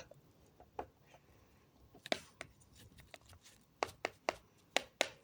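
A series of light taps and clicks, sparse at first and then coming about three a second near the end.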